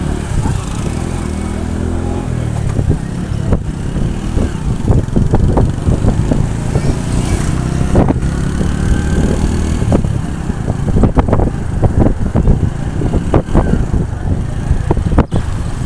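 Motorcycle engine running while riding, with an uneven low rumble and many short irregular knocks over it.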